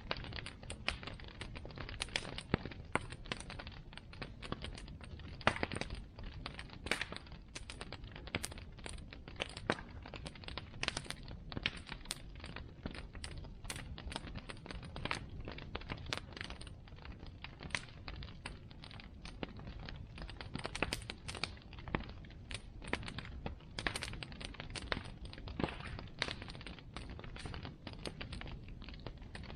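Bonfire crackling, with many irregular sharp pops and snaps over a steady low rumble of the burning wood.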